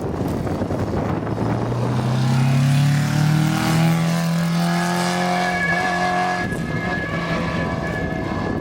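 Rally car accelerating past on a special stage: its engine note climbs, shifts gear near the middle, then holds and drops away as the car goes by.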